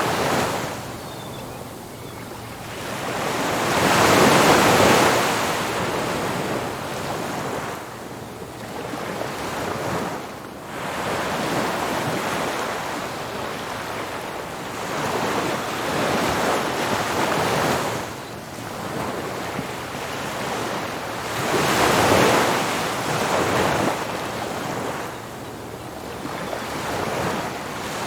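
Ocean surf breaking on a beach, wave after wave, a rushing wash that swells and falls back every few seconds. The biggest breakers come about four seconds in and again past the twenty-second mark.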